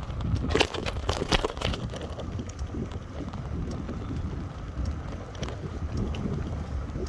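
Wind rumbling on the microphone, with a cluster of sharp crackling clicks about half a second to two seconds in and a few scattered clicks after.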